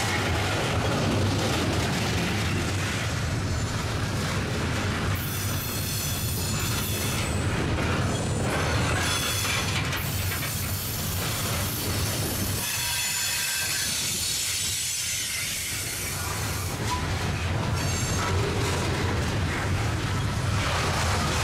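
Loaded coal hopper cars of a freight train rolling past at close range: a steady rumble of steel wheels on rail. High squealing tones from the wheels come and go through the middle of the pass.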